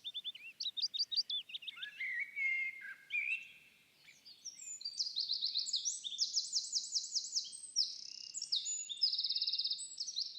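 Songbirds singing, with several rapid, high trilled phrases overlapping one another and a brief lull about four seconds in; the song cuts off abruptly at the end.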